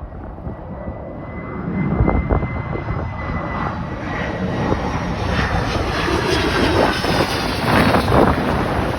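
Airplane engines growing steadily louder as the aircraft approaches, with a thin whine that drifts slightly lower in pitch, over wind buffeting the microphone.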